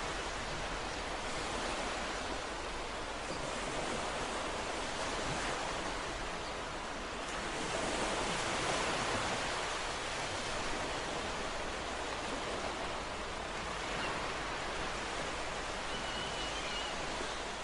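Ocean surf washing steadily, with one wave swelling louder about halfway through.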